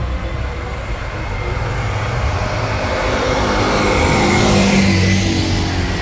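A car engine running under power as the car drives past, growing louder to a peak about five seconds in, then starting to fade.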